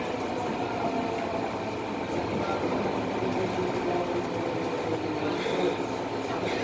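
Steady running noise heard inside an MTR M-Train carriage under way: wheels on track with the hum of the train's traction equipment.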